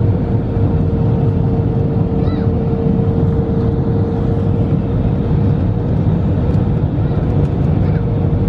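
Airbus A320 cabin noise: a steady, loud low rumble of engines and air with a constant hum running through it.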